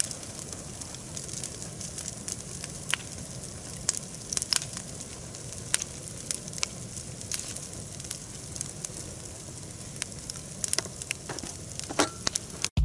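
Campfire of pine branches burning and crackling, with irregular sharp pops and snaps over a steady hiss. The branches are damp from hours of rain.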